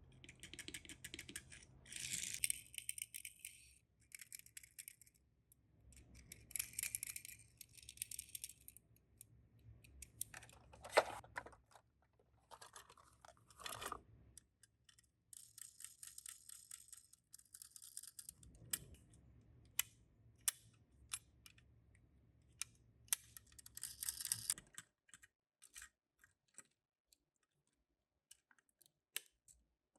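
Hands handling Tomica die-cast minicars and their packaging: bursts of rustling with many small clicks and taps, then only occasional clicks near the end.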